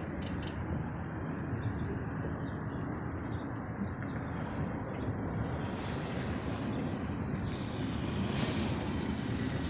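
Steady low outdoor rumble, with birds chirping, a few very high-pitched short chirps in the last three seconds.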